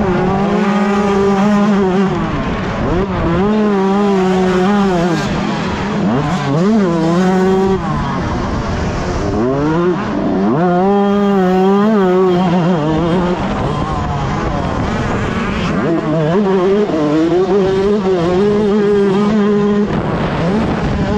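A 125cc two-stroke motocross engine revving hard, its pitch climbing and dropping again and again as it is ridden on full throttle and shut off through the gears.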